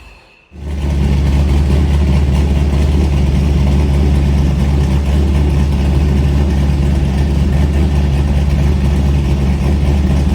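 1997 Camaro SS's LT1 V8 running steadily through a GMMG chambered exhaust, a loud, even low rumble that starts abruptly about half a second in after a brief near-silence.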